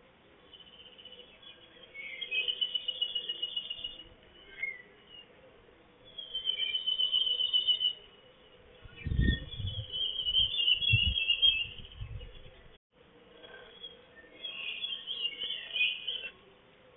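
A songbird singing short, high, trilling phrases, repeated about every four seconds. Low rumbling thumps on the microphone come in around the middle.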